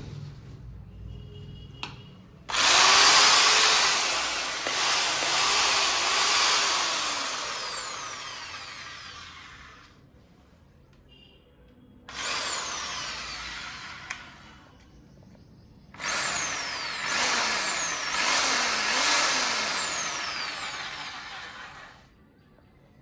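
Bosch GSB 500 RE corded electric drill run three times: a long run, a short one, then another long one. The motor speed rises and falls with the trigger, and it winds down after each release.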